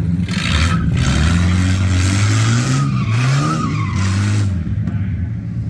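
Car engine revving hard while its tyres squeal and skid for about four seconds, the squeal wavering in pitch, then easing off.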